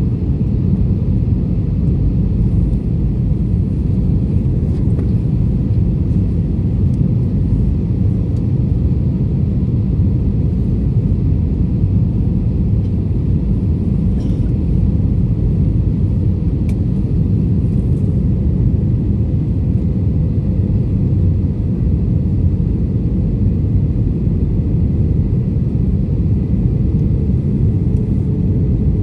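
Airbus A320 airliner noise: a loud, steady low rumble that holds unchanged throughout.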